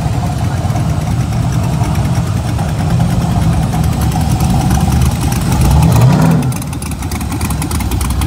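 Engines of custom classic cars and hot rods rumbling as they roll slowly past. The exhaust grows louder to a peak about six seconds in, then drops off suddenly.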